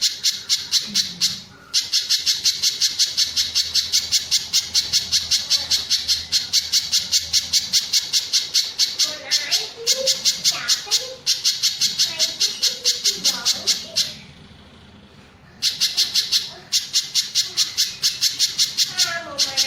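Spiderhunter (pijantung gunung) singing: a fast run of sharp, repeated high notes, about five a second, with a few short breaks and a longer pause about three-quarters of the way through.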